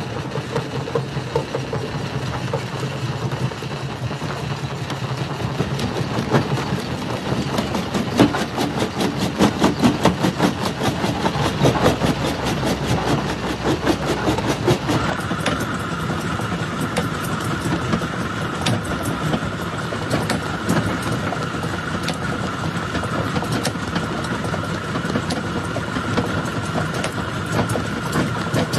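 Rock crusher running and crushing stone: a steady machine rumble under dense cracking and knocking of rock, busiest a third of the way in. About halfway a steady high whine starts suddenly and holds.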